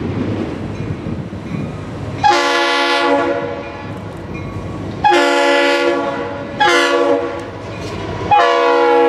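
Freight locomotives running light with their chime horn sounding the grade-crossing signal, long, long, short, long, over a low engine and wheel rumble. The last long blast is still sounding at the end.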